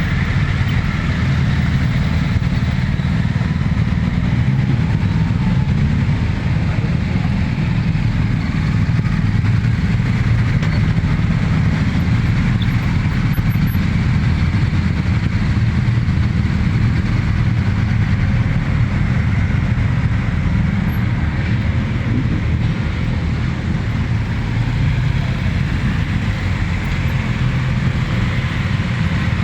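A group of motorcycle engines running together, giving a steady, unbroken rumble.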